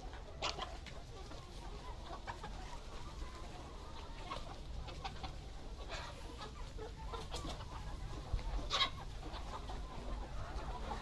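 BV380 laying hens clucking, scattered short calls, the loudest about nine seconds in, over a low rumble.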